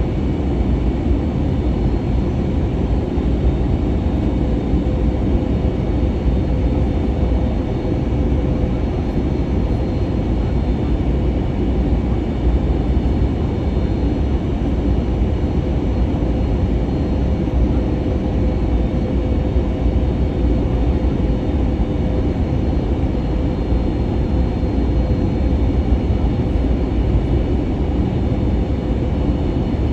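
Steady cabin noise of an Airbus A320neo in flight: an even low rumble of airflow and engines with a faint steady hum over it.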